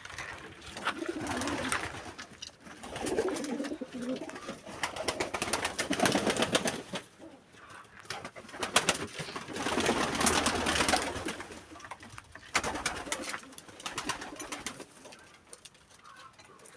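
Pigeons cooing in repeated low swells a second or two long, with scattered clicks and rustling between them.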